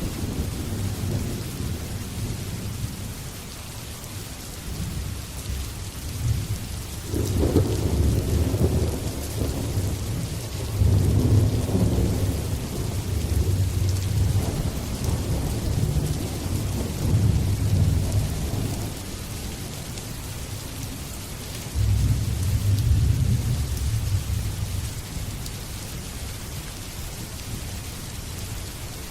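Steady rain with rolling thunder, a long deep rumble from about a quarter of the way in to past the middle and a shorter one a few seconds later.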